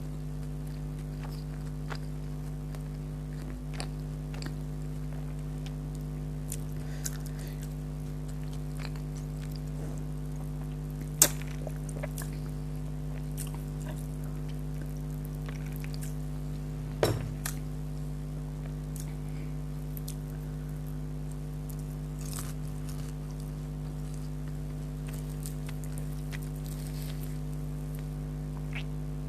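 Faint eating sounds, scattered crunchy clicks of chewing, over a steady electrical hum. There is one sharp click about eleven seconds in and a knock about seventeen seconds in.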